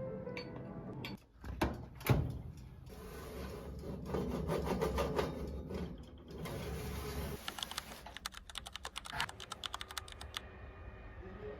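Quick, irregular clicking and tapping, densest near the end, with two louder knocks about two seconds in.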